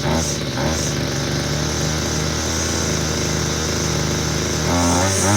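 Homelite gas string trimmer's small two-stroke engine running on its own after a cold start, holding a steady speed, then revved up near the end with the pitch wavering up and down.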